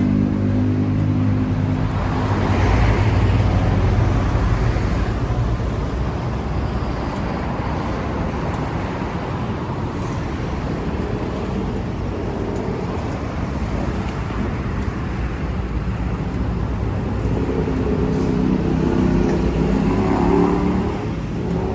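Kawasaki Z900RS inline-four motorcycle engine running and being revved. The engine climbs from a steady beat to a fuller, busier sound through the middle, then drops back toward lower revs near the end.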